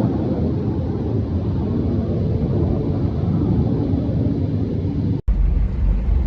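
Rumbling jet noise of a B-1 bomber circling overhead. About five seconds in it cuts off abruptly to the steady low drone of a car driving.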